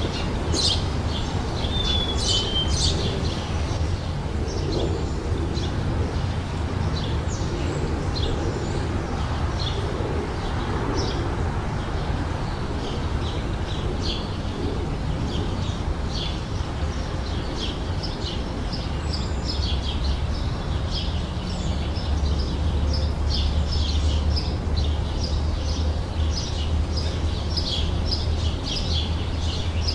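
Wild birds chirping and singing, a steady scatter of short high chirps that grows denser toward the end, over a steady low rumble.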